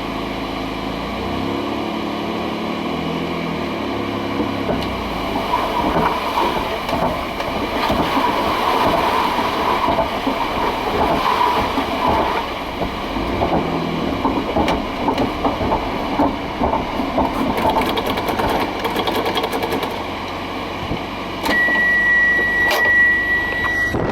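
Mitsubishi 3000GT VR-4's twin-turbo V6 running, then the car rolling with a dense, uneven rattling and clattering. Near the end a steady high warning beep starts.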